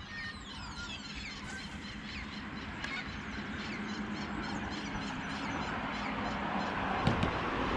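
Birds calling in a rapid run of short, falling chirps, over a steady low rumble of traffic, with a short knock about seven seconds in.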